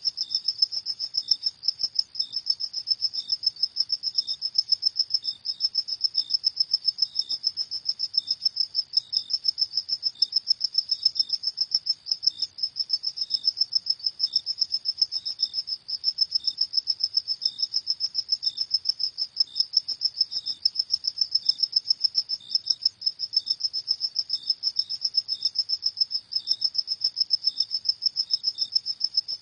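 Crickets chirping at night: a continuous fast pulsed trill, with a second, fainter cricket chirping in slower pulses a little lower in pitch.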